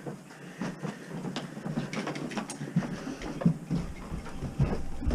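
Irregular knocking and clattering of cookware being rummaged through and shifted, getting busier toward the end.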